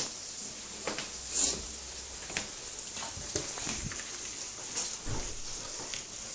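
Food sizzling as it fries in a pan, a steady hiss, with a spoon knocking and scraping against the pan several times. The loudest knock comes about one and a half seconds in.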